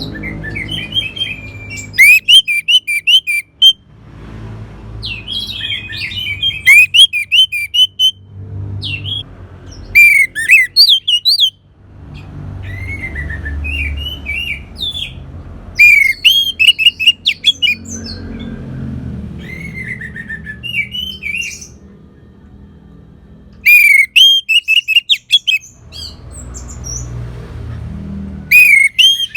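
Orange-headed thrush singing: loud bouts of fast, varied, high whistled phrases about every four to six seconds, with quieter song between them and a low rumble underneath.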